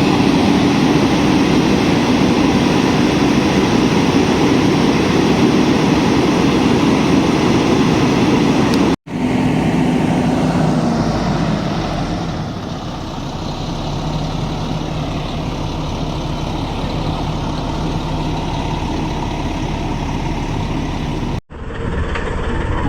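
A heavy engine running steadily, like a large vehicle idling. It comes in three pieces split by two sudden cuts.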